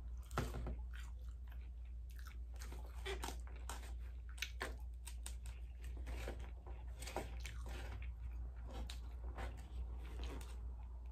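Close-miked chewing of fried seafood and fried rice: crunchy bites and mouth smacking in an irregular run of clicks, several a second, over a steady low hum.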